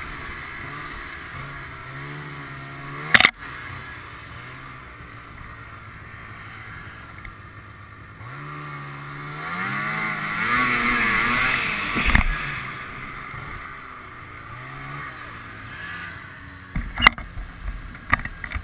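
Ski-Doo snowmobile engine running under way, its pitch rising and falling as the throttle is worked, with a climb about halfway through. Sharp knocks come about three seconds in, about twelve seconds in and near the end.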